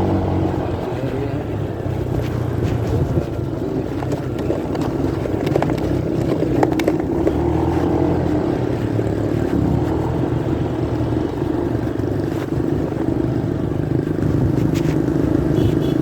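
Motorcycle engine running under way, heard muffled through a phone carried in a pocket, with the engine note shifting up and down as the rider changes speed over a steady rush of riding noise.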